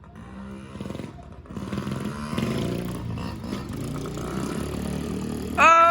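Small child's mini dirt bike engine running, getting louder after about a second as the bike comes closer and then holding steady. Near the end it is cut across by a loud shout of "Oh!" as the rider goes down in the wet mud.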